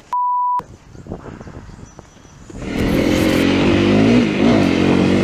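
A short, steady beep, then about two and a half seconds in a motorcycle engine comes in loud, its revs rising and falling.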